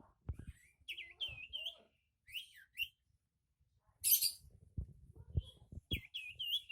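Sirtu songbird calling in agitation: bursts of quick, looping chirps with a few falling slurred notes. About four seconds in comes a loud, harsh, noisy burst, followed by a few low thumps.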